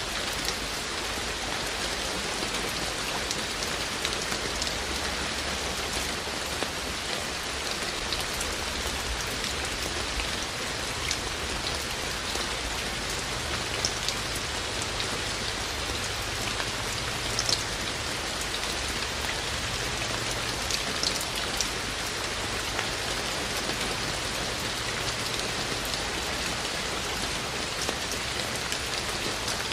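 Steady rain falling, an even hiss with many scattered, sharper drop impacts ticking through it.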